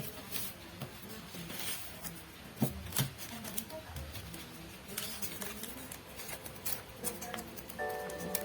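Origami paper rustling and crackling as it is handled and creased by hand, with a couple of sharper crinkles a few seconds in. Background music comes in near the end.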